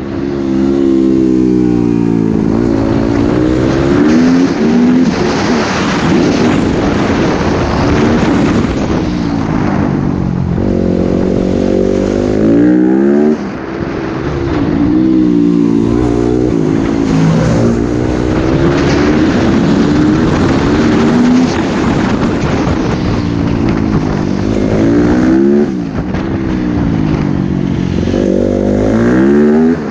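Motocross bike engine revving hard around a track, its pitch climbing through the gears and stepping down at each shift, with short drops where the throttle is shut about 13 and 26 seconds in.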